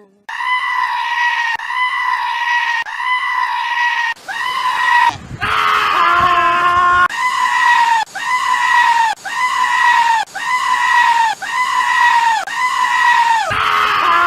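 A goat screaming over and over in high pitched, near-identical calls, about one a second. A second, lower call overlaps them for a couple of seconds midway.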